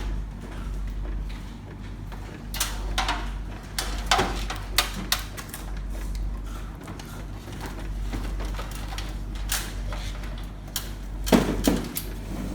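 Irregular clicks and knocks of tools or parts being handled, over a steady low hum.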